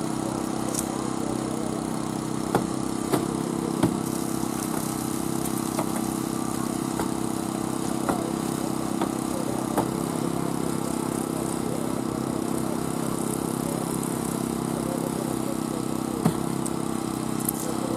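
An engine running steadily at a constant speed, with a few sharp knocks and clicks over it.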